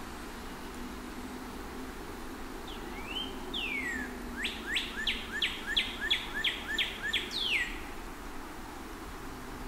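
A songbird sings one phrase: a couple of rising notes, then a quick run of about eight falling whistled notes, closing on a longer falling note. Under it is a steady low background rumble.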